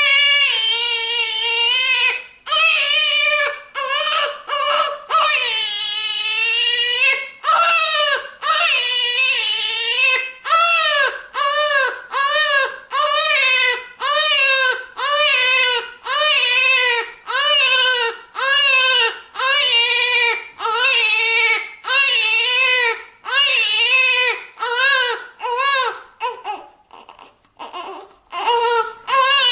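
Newborn baby crying in a rhythmic run of wails, about one a second, each rising and falling in pitch with a catch of breath between. Near the end the crying briefly drops to a few faint gasps, then starts again.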